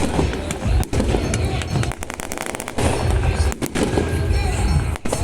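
Firecrackers popping in rapid, dense strings of sharp bangs over a low steady rumble.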